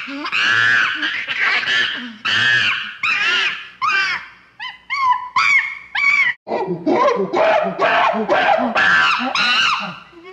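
A rapid series of high-pitched, wavering cries and shrieks, one after another, with lower-pitched ones in the second half, stopping abruptly at the end.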